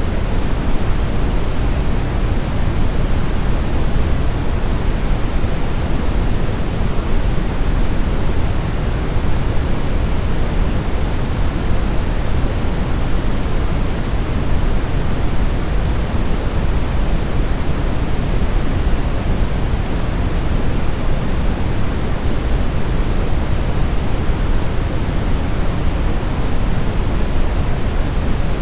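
Brown noise: a steady, even rushing hiss weighted toward the low end, with no rhythm or change.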